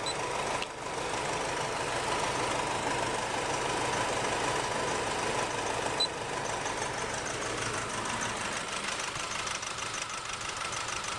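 The 2.5-litre common-rail turbo diesel of a 2008 Nissan Navara idling steadily during a cylinder test on number 1; it runs on much the same with that cylinder tested, so cylinder 1 shows very little difference while the engine has a misfire. There is a short click about six seconds in.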